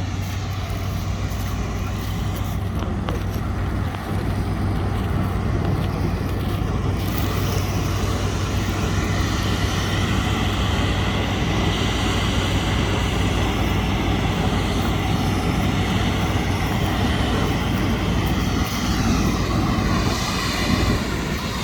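Combine harvester's diesel engine running steadily, with a constant low hum under a broad mechanical noise that grows louder about seven seconds in.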